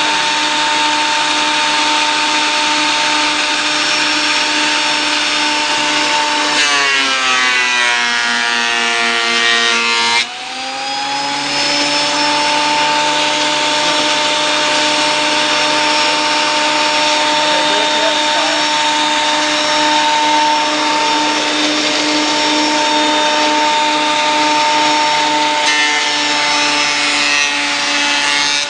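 Ryobi 10-inch surface planer running with a steady motor whine. About six seconds in, the pitch sags for a few seconds while the machine is loaded, then drops out briefly and climbs back up to full speed. A smaller sag comes near the end.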